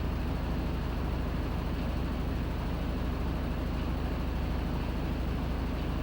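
Panasonic NA-FA100H9 top-loading washing machine running with a steady low hum and an even, unchanging whir.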